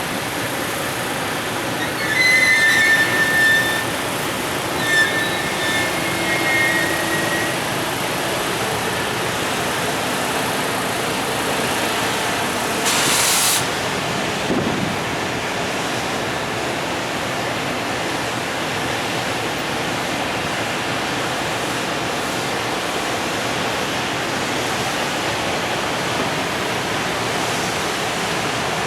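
Container freight train hauled by an EF510 electric locomotive rolling out of the station: a steady rush of wheels on rails. Two high-pitched squeals sound in the first several seconds, and a short hiss comes about halfway through.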